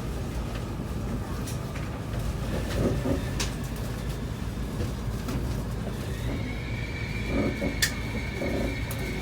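Interior running sound of an E7 series Shinkansen with Mitsubishi IGBT VVVF traction equipment: a steady low rumble, joined by a high, steady whine about six seconds in, with a sharp click shortly after.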